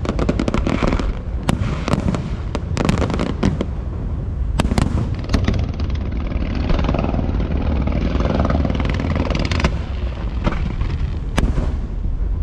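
Fireworks show: a quick run of sharp bangs and crackles in the first five seconds or so, then a denser crackling hiss, and a single sharp bang near the end, all over a constant low rumble.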